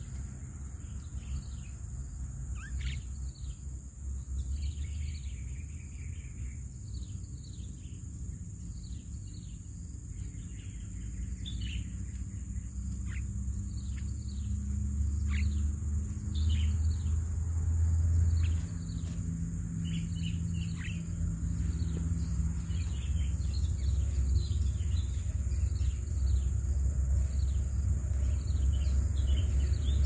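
Birds chirping repeatedly, many short high notes that each drop quickly in pitch, over a steady high insect drone and a low rumble.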